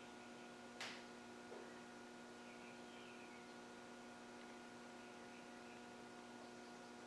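Near silence: a steady, faint electrical hum, with one short click a little under a second in.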